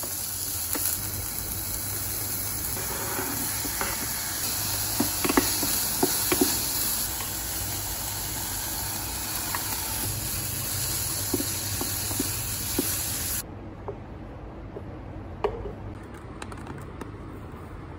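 Chopped vegetables and rice sizzling in a small electric frying pan as they are stirred with a wooden spoon: a steady hiss with a few knocks of the spoon against the pan about five to six seconds in. The sizzling stops abruptly about 13 seconds in, leaving a quieter background.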